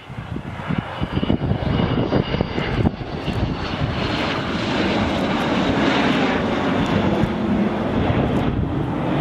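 Jet aircraft engines rumbling on a pass, growing louder over the first few seconds and then holding steady, with a thin high whine in the first few seconds.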